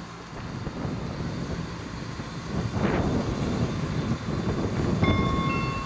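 Train running along the platform, its noise building, with a short hissing surge about three seconds in and a few high steady squealing tones near the end.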